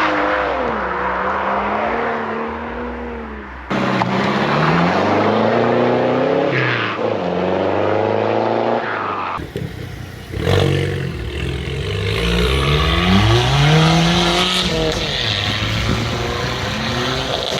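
Car engines revving and accelerating as modified cars pull away, their pitch rising and falling with the revs. The sound changes abruptly twice, about 4 s and 9.5 s in, as one car's sound gives way to another's.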